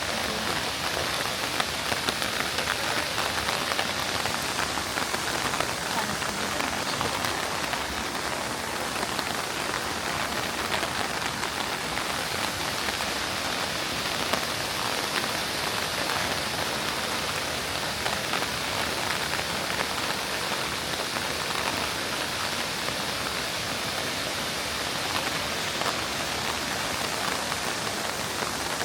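Falling water hissing steadily, with a dense patter of small drop impacts.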